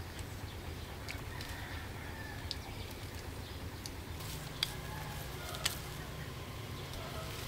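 Faint bird calls, scattered short chirps over a steady low hum, with two sharp clicks about halfway through.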